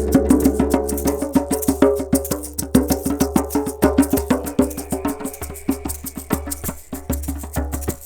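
Fast, even tapping on a wooden percussion instrument, several strikes a second, over sustained ringing tones and a low steady drone.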